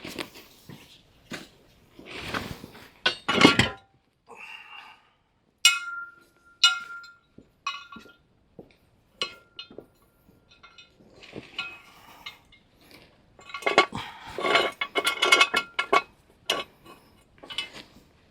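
Metal hand tools clinking and knocking against metal, a string of separate sharp clinks, some ringing briefly, with a quick flurry of clinks near the end.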